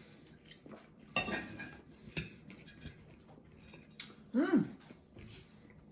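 Cutlery clinking and scraping against a plate during a meal, with a few sharp clicks. A little past the middle, a short voice-like sound rises and falls in pitch; it is the loudest moment.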